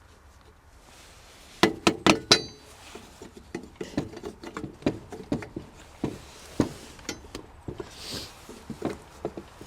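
Metal hardware from a Stanley 2358 mitre box being handled as it is taken apart. About a second and a half in comes a quick cluster of sharp metallic clinks with a brief ring, then a run of lighter, irregular clicks and taps.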